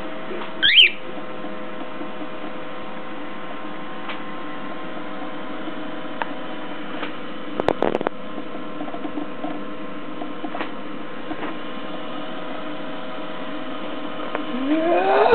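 Steady electrical hum, with a short falling chirp from the pet bird about a second in and a few clicks near the middle. Near the end a pitched sound rises and then holds.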